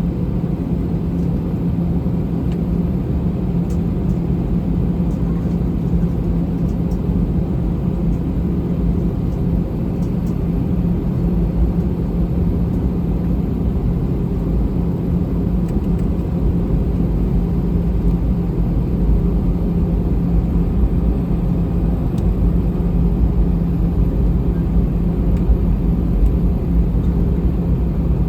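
Airbus A321 cabin noise on the ground before takeoff: a steady low rumble with a constant hum from the engines and air systems.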